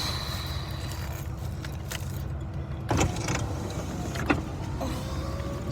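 Steady low rumble of a car's cabin on the move, with a faint steady hum and a couple of brief knocks about three and four seconds in.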